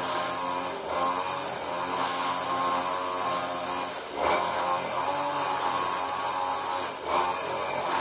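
A power tool's motor running steadily with a loud hiss, dipping briefly twice.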